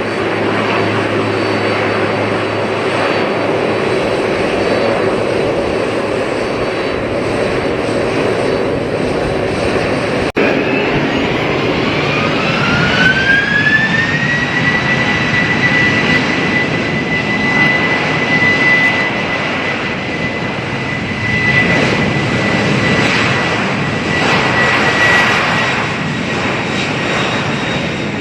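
Jet airliner engines running with a steady noise. About ten seconds in the sound cuts to another aircraft, whose engine whine rises in pitch over about four seconds and then holds steady: the engines spooling up to high thrust.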